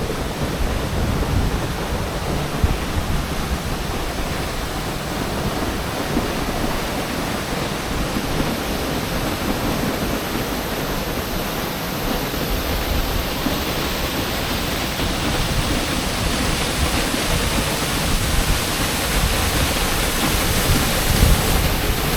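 Hunua Falls waterfall heard close up: a steady rush of falling water, getting a little louder near the end.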